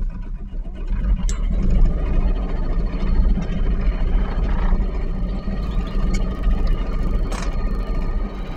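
Sailboat's inboard diesel engine running steadily in reverse gear, a continuous low rumble. A brief click about a second in and another near the end.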